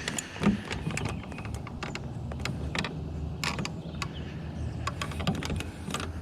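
Fishing reel being cranked, with irregular mechanical clicks and a sharper knock about half a second in, over a low steady hum.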